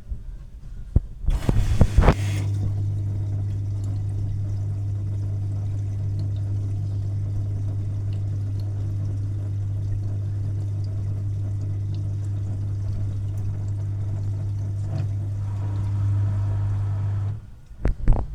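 LG washing machine running water, a steady low electrical hum over the sound of flowing water. It starts with a brief loud rush about a second in and cuts off suddenly near the end, followed by a few knocks.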